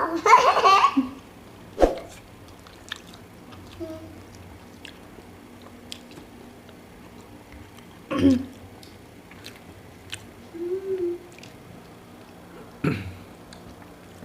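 Close-up eating sounds of a person chewing a sandwich, with small wet clicks and smacks of the mouth. A few short louder sounds break in: a sharp click about two seconds in, and brief bursts about eight and thirteen seconds in.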